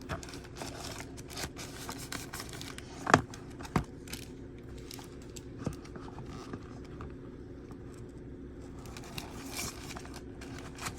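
Packaging and small items being handled: rustling, crinkling and light clicks, with two sharp knocks about three seconds in and a smaller one near six seconds.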